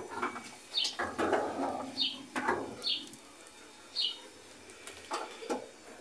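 A small bird chirping: short, high, downward-sliding notes about once a second, with a few faint knocks in between.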